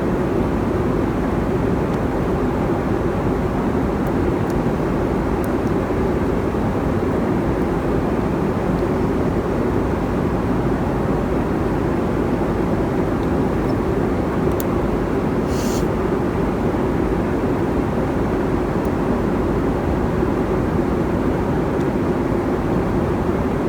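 Steady cabin roar of a Boeing 747-400 in flight, from engine and airflow noise. A few faint clicks sound near the middle.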